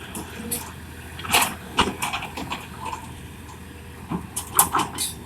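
Excavator engine running steadily with a low hum, under a series of short sharp knocks and scrapes. The loudest come about a second and a half in and again near the end.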